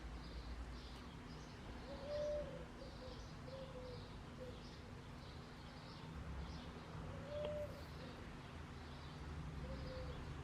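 Birds calling: a small bird chirps over and over in a high pitch, while short, lower cooing notes come in bunches about two seconds in, again near seven seconds, and near the end.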